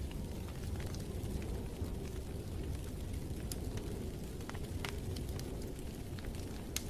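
Fire crackling in a fireplace: scattered sharp snaps and pops over a steady low rumble of burning.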